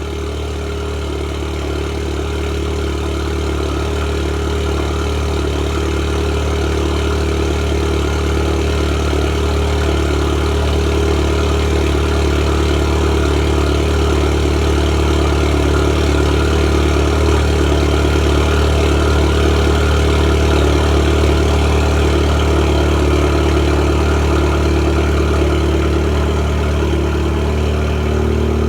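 Volkswagen Golf R's turbocharged 2.0-litre four-cylinder idling steadily through an Xman aftermarket exhaust after a cold start, growing slightly louder over the first few seconds.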